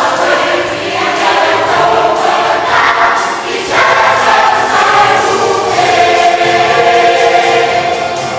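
A church choir singing a Christmas cantata song with instrumental accompaniment, a loud entry about halfway through and a long held chord near the end.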